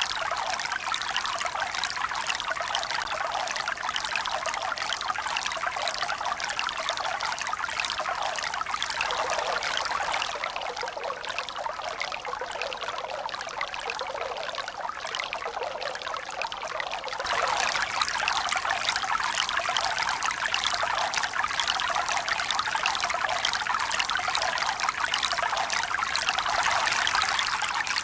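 Running water splashing steadily, a dense hiss of many small splashes. For several seconds in the middle it turns quieter and duller, then it comes back louder about two-thirds of the way through.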